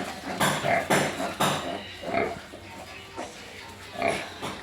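Pigs grunting repeatedly in short bursts, with a brief lull in the middle.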